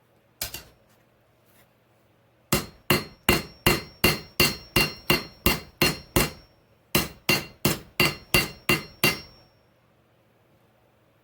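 Hammer blows on the steel knife blank forged from an old file, struck on an anvil to straighten and flatten it. Two quick strikes come first, then a steady run of blows at about three a second, a brief pause, and a shorter run. Each blow rings with a clear metallic tone.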